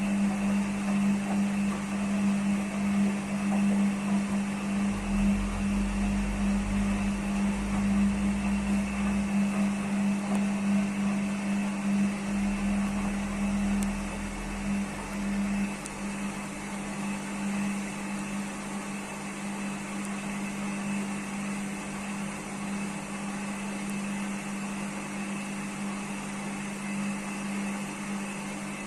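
IFB washing machine running its spin-only programme with a single towel in the drum: a steady motor hum with a low rumble that swells in the first half and fades after about 15 seconds.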